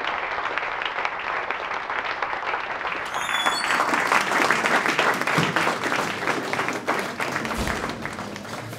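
Audience applauding, the clapping swelling about four seconds in and dying down near the end.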